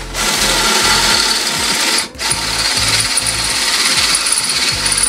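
Power drill drilling out a hole to 10 mm in the kart's metal, running loud and steady with a brief stop about two seconds in.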